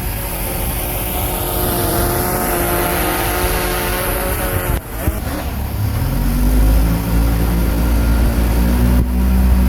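A bulldozer's diesel engine running loudly: its pitch climbs over the first few seconds, dips briefly just before the middle, then settles into a deep, lower, steady running for the rest.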